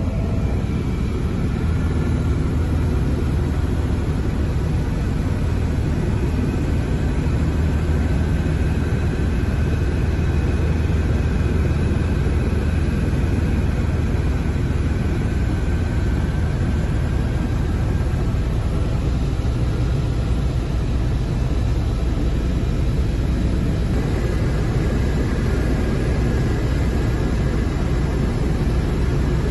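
Écureuil helicopter in flight: the turbine and rotor make a steady, unbroken drone with a strong low hum.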